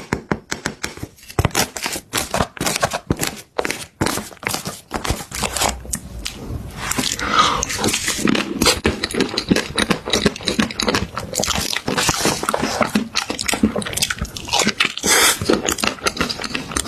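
Close-up crunchy biting and chewing of crisp food: sharp crunches, spaced out at first and almost continuous from about six seconds in.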